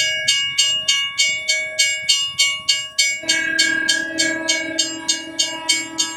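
Train sound effect: a bell striking rapidly, about three times a second, like a railroad crossing bell, with a train horn sounding steadily from about three seconds in.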